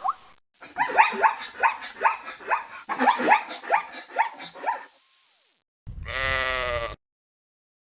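Animal calls: a quick run of short, high, rising yelps, about four or five a second, then one long bleat about six seconds in.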